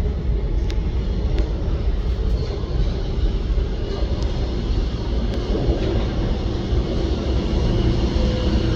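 R160 subway train rumbling into an underground station: a steady low rumble of steel wheels on the rails, with a few faint clicks in the first few seconds.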